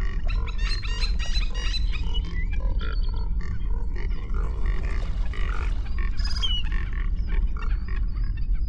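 Animal calls: runs of short, quickly repeated pitched notes, thickest near the start and again toward the end, over a steady low rumble.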